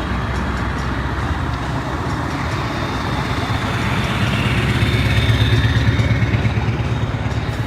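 Truck's diesel engine running with a low rumble, getting louder about halfway through and easing near the end.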